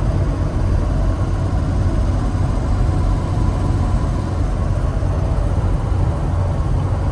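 Converted 2006 Ford ambulance with a 6.0 diesel driving along, a steady low engine and road rumble.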